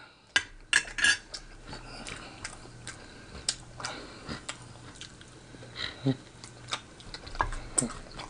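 Close-miked eating: wet chewing and mouth clicks from a mouthful of pork chop and rice, with a metal spoon clinking against the plate. There are short, sharp clicks throughout, loudest in the first second or so.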